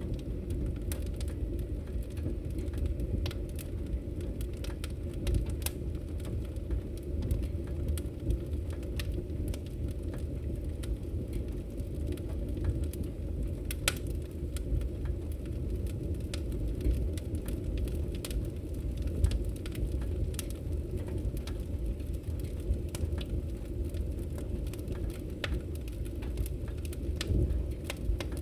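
Campfire crackling, with irregular sharp pops, over the steady low rush of a river.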